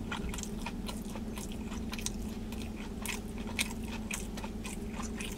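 A person chewing a mouthful of sub sandwich close to the microphone: many small, irregular smacking clicks. A steady low hum runs underneath.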